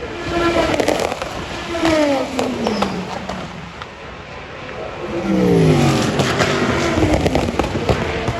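Race cars passing at speed, each engine note dropping in pitch as it goes by. The first pass comes about half a second in and a louder one about five seconds in, with sharp pops and crackles mixed in.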